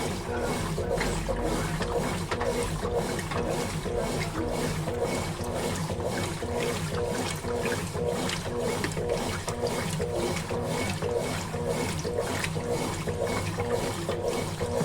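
Consul Facilite 11 kg (CWG11) washing machine in its wash stage, churning the load back and forth in water with a steady swishing rhythm a few times a second.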